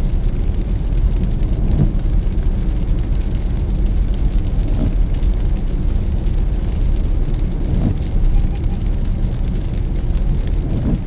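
Car driving in rain: a steady low rumble of engine and tyres on a wet road, with light raindrop ticks.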